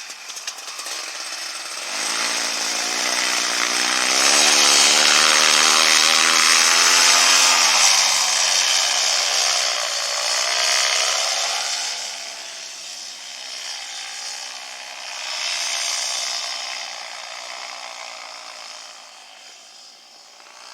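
A small engine with a chainsaw-like sound, running up in speed: it rises from about two seconds in, holds high and loudest until about eight seconds, then drops sharply and runs on at lower speed with a couple of swells before fading near the end.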